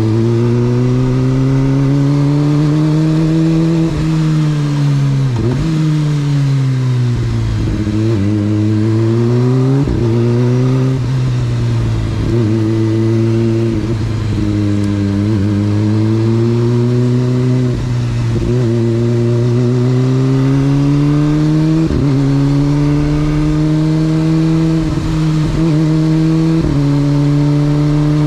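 Motorcycle engine pulling through the revs while riding, its pitch climbing and dropping repeatedly with brief sharp dips at gear changes or throttle lifts, then holding steadier near the end.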